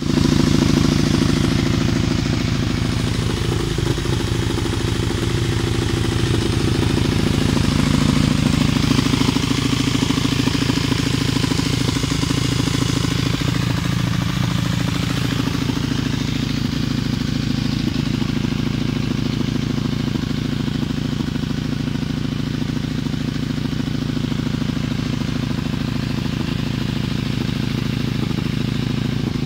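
KTM SX-F 250 single-cylinder four-stroke engine, bored out to 280 cc, idling steadily, with a slight waver in pitch about halfway through.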